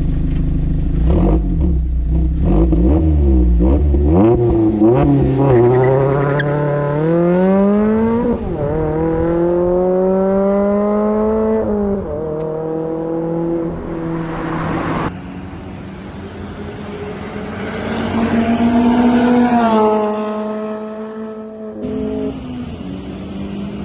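Mazda MX-5 engine and exhaust accelerating hard through the gears. The pitch climbs, drops at each upshift and climbs again, with a sharp lift-off about fifteen seconds in before another short pull that ends in a shift.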